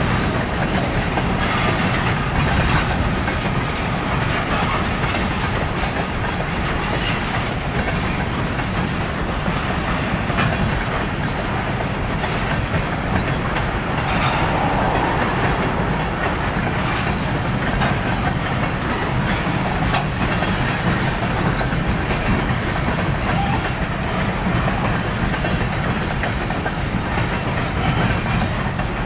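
A freight train's cars rolling past, with the steady noise of steel wheels running on the rails.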